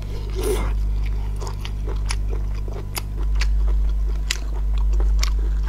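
A person chewing cooked sea snail meat close to the microphone, with several sharp, wet mouth clicks spread through the chewing. A steady low hum runs underneath and gets louder about three seconds in.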